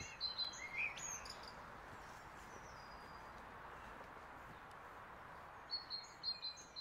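Faint birds chirping: a few short, high notes in the first second and a quick run of them near the end, over a soft steady hiss.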